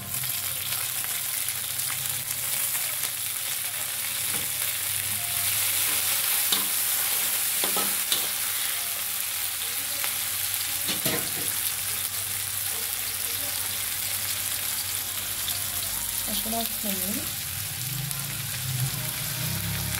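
Shredded carrots and vegetables frying in hot oil in a wok: a steady sizzle, with a few sharp knocks in the first half.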